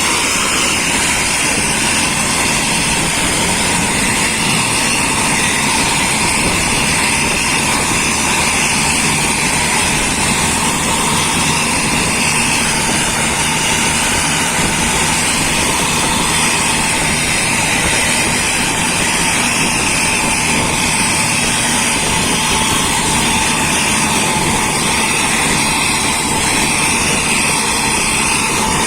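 Engine exhaust running steadily through an aftermarket exhaust, a loud, unbroken whooshing with a faint steady high tone and no revving.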